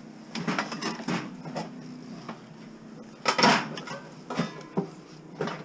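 Clattering and knocking of an old steel-wheeled bicycle being handled and lifted, with a louder scrape about three seconds in.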